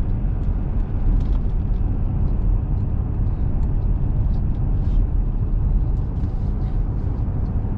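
Steady low rumble of road and engine noise heard inside a small truck's cabin while driving, with faint light ticks scattered through it.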